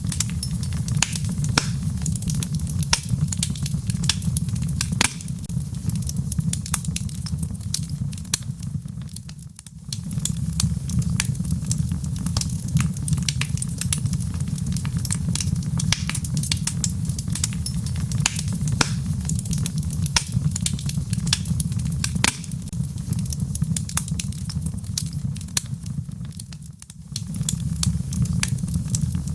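Wood fire burning in a fireplace: a steady low rumble of flames with frequent sharp crackles and pops from the burning logs. The sound dips briefly twice.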